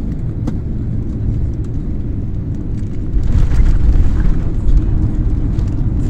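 Airbus A350-900's Rolls-Royce Trent XWB jet engines rumbling during the landing, growing louder about three seconds in.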